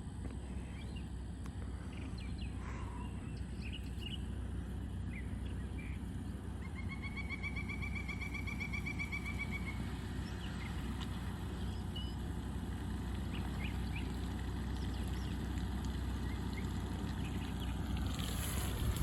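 Low, steady rumble of the Ford Bronco Raptor's 3.0L twin-turbo EcoBoost V6 at a slow crawl through a shallow puddle, with birds chirping over it and one long pulsed trill about seven seconds in. Near the end a rushing, noisy sound swells up.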